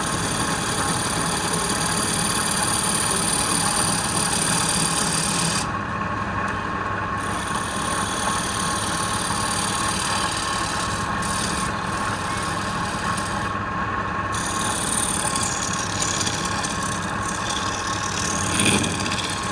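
Wood lathe running steadily while a tool works the spinning wood, a continuous rubbing, rasping sound over the motor's steady hum.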